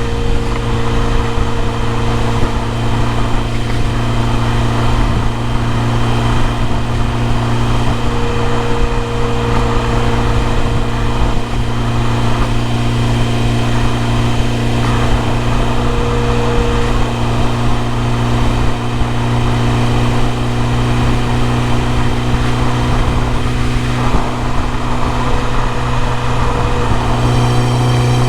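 BMW E30 M3's S14 four-cylinder engine running steadily at idle, growing louder near the end.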